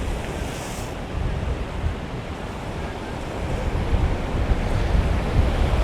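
Ocean surf rushing and breaking in rough, storm-whipped seas, with strong wind buffeting the microphone in low rumbling gusts. It grows somewhat louder toward the end.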